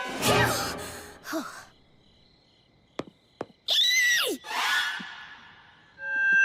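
Cartoon non-word vocal sounds and effects: a breathy sigh at the start, two short clicks about three seconds in, then a rising-and-falling voiced sound and another breath, with a steady held tone starting near the end.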